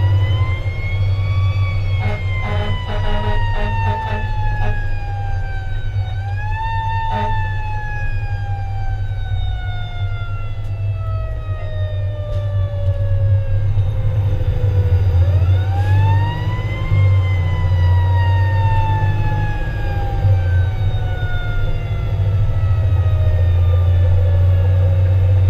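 Fire engine siren wailing over the steady low drone of the truck's engine. The siren's pitch rises quickly three times (at the start, about six seconds in, and about fifteen seconds in) and each time falls slowly for several seconds.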